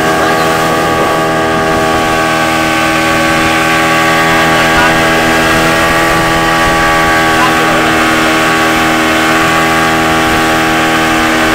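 Motorboat engine towing a banana boat, running at a steady speed with an even drone, over a hiss of wind and water.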